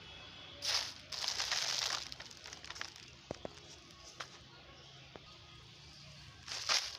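Rustling as litter is picked up and handled, in three short bursts (one early, a longer one about a second in, one near the end) with a few light clicks between.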